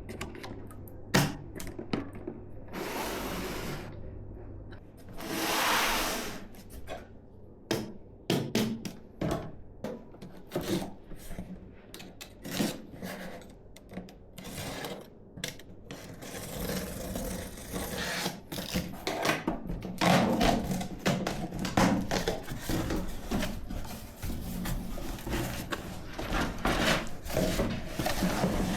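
Hands handling computer parts and their packaging: scattered clicks and taps, two longer rustles a few seconds in, then denser rubbing and knocking through the second half.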